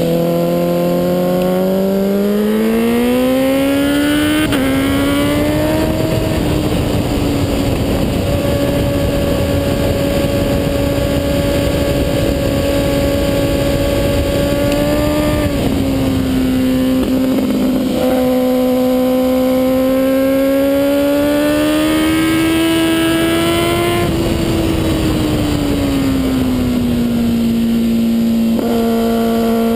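Kawasaki ZX-10R's inline-four engine at high revs, climbing in pitch under acceleration, holding steady for long stretches and stepping down at gear changes and off-throttle, with a heavy rush of wind on the fork-mounted camera.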